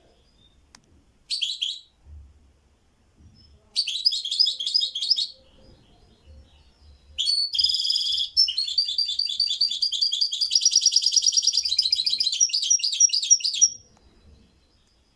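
A kept songbird singing: a short phrase, then a longer one, then a long run of fast, high trills lasting several seconds.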